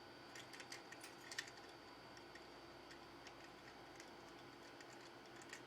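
Faint, scattered clicks and taps of a green-cheeked conure's beak working at a plastic foraging toy; most come in the first second and a half, with a few more later.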